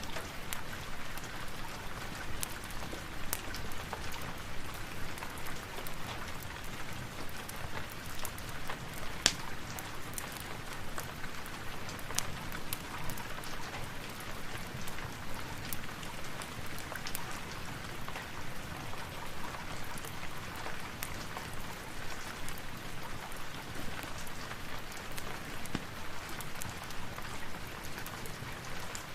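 Steady rain falling, with scattered sharp clicks throughout and one louder pop about nine seconds in.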